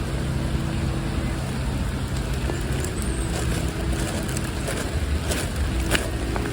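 Steady rain falling through the trees, over the low steady hum of road traffic, with a few sharper drops near the end.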